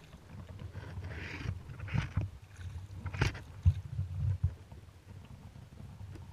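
Kayak on the water: paddle splashes and a few sharp knocks on the hull, over a low rumble of wind on the microphone.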